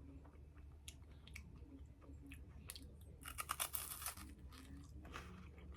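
Close-up chewing of a Knoppers milk hazelnut wafer bar: soft crisp crackles from the wafer and cream as it is chewed, with a loud burst of crunching about three seconds in.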